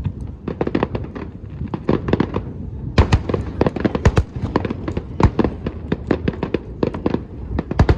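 Fireworks show: a rapid string of bangs and crackles from aerial shells bursting, several a second, over a continuous low rumble.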